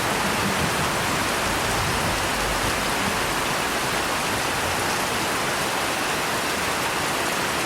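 Steady rain falling, an even, unbroken hiss of drops, with a soft low rumble in the first three seconds or so.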